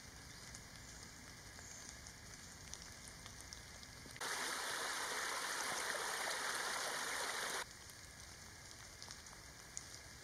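Faint light rain in woodland, a steady hiss with scattered drops. Just after four seconds a small cascade of water over leaves and twigs cuts in, a louder steady rush for about three and a half seconds, then cuts off sharply back to the faint rain.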